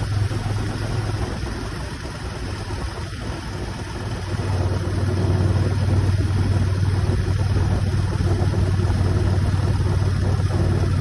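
Motorcycle engine running steadily while riding, over a steady rushing noise. The engine gets louder about four seconds in.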